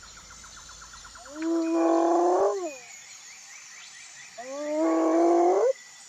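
Two long, drawn-out calls from a large wild animal, about a second and a half each, the second starting about four and a half seconds in; each holds a steady pitch and drops at the end. Insects chirp faintly behind, with a quick ticking in the first second or so.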